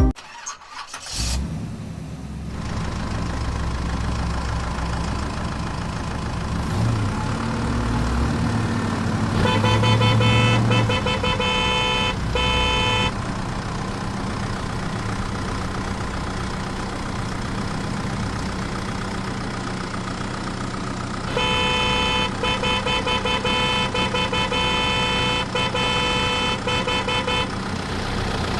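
Mini tractor engine running steadily, with its horn sounding in two spells of repeated honks, one about ten seconds in and a longer one a little past twenty seconds.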